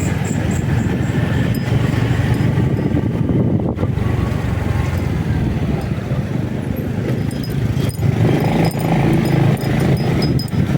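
Motorcycle on the move: a steady, loud engine drone mixed with road noise, swelling a little about eight seconds in.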